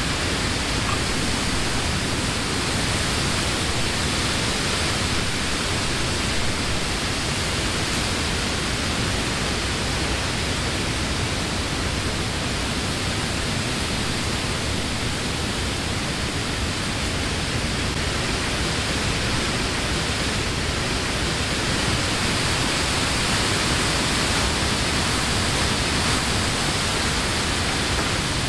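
Summer wind blowing steadily through leafy trees: a continuous hiss of wind in the leaves that swells slightly near the end.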